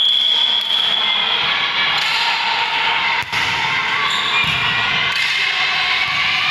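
A basketball bouncing on an indoor court during a game, amid players' calls and shoe squeaks echoing in the gym.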